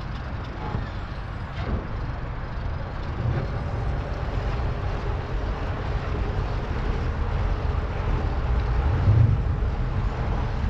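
Steady low rumble of a running vehicle engine, growing gradually louder toward the end.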